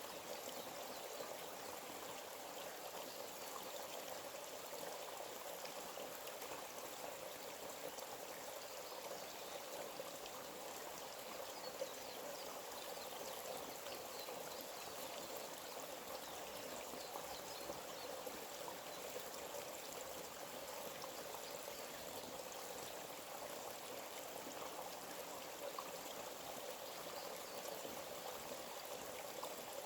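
A small forest stream flowing and babbling steadily.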